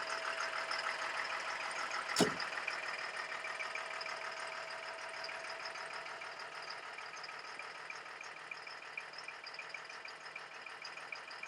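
Cat 3116 turbo diesel of an M1078 LMTV truck idling with a steady, fast diesel clatter, gradually fading. A single sharp knock about two seconds in.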